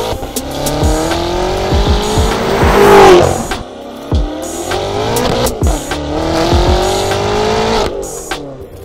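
BMW M5 engine accelerating, its pitch climbing in two long pulls and loudest about three seconds in, with music underneath.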